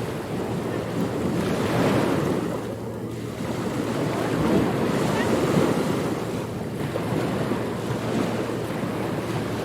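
Ocean surf washing onto a beach, swelling and easing every few seconds, with wind buffeting the microphone.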